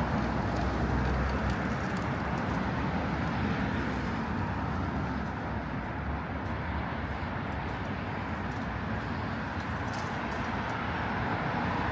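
Steady hum of road traffic on a city street, a continuous rumble of passing vehicles with no single event standing out.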